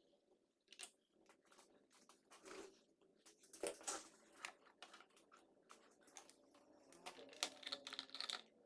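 Faint, scattered clicks and short scraping, crinkling sounds of hands working with small parts and tools, busier near the end.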